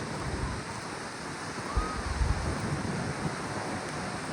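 Wind buffeting the microphone over steady surf noise, with the strongest gusts about two seconds in. A faint short tone rises and falls just before them.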